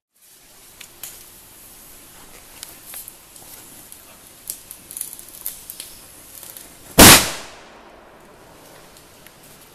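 A lit fuse fizzing with small crackles for about seven seconds, then a Di Blasio Elio 'Zeus Special' firecracker with 0.5 g of flash powder going off in one sharp, loud bang that dies away over about a second.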